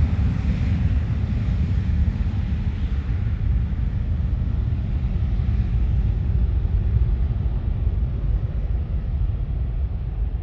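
Jet airliner engines rumbling steadily, the sound slowly growing duller as the aircraft moves away.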